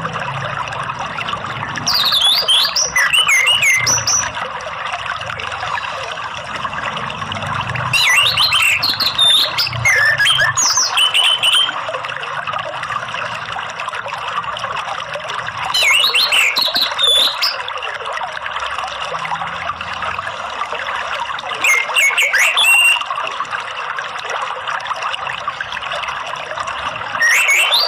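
Orange-headed thrush singing its loud, open ngeplong song in short phrases of gliding whistles, one every six seconds or so, over a steady sound of running water.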